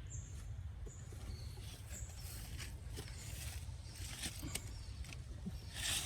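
Forest ambience: a few short, high-pitched chirps and bursts of rustling over a steady low rumble. The loudest rustle comes just before the end.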